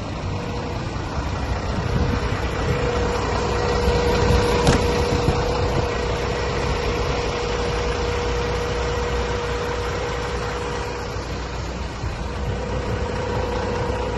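Renault Premium 270.19 truck's diesel engine idling steadily, with a steady whine running over it and a single sharp click a little under five seconds in.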